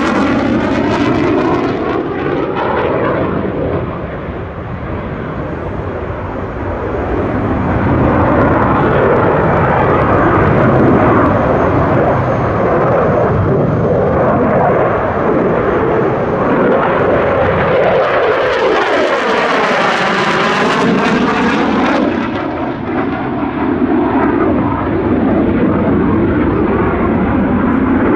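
F-16 fighter jet's single engine running loud in a display flight, a continuous jet roar that swells and dips as the aircraft manoeuvres. A sweeping, phasing sound comes through near the start and again about two-thirds of the way through as the jet passes.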